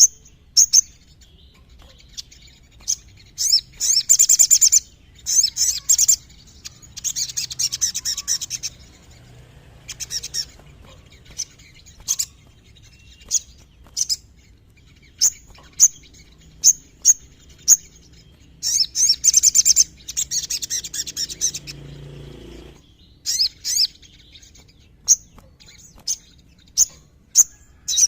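A sogon (sogok ontong) sunbird singing: sharp, high chirps repeated every second or so, broken several times by rapid trills lasting a second or two.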